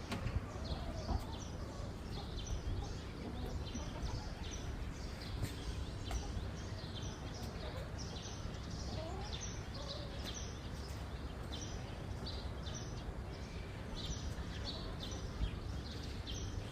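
Small birds chirping repeatedly, short high chirps about one or two a second, over a steady low rumble.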